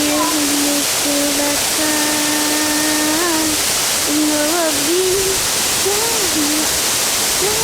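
Waterfall rushing steadily, with a person's voice holding long, sliding sung notes over it.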